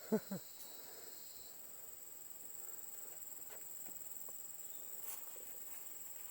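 Insects in forest trilling as one steady high-pitched drone, with a short second high trill in the first second or so.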